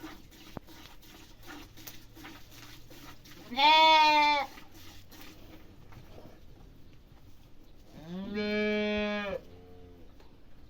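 A farm animal bleating: two loud calls, the first about a second long, the second, lower and rising at its onset, near the end, followed by a short fainter call.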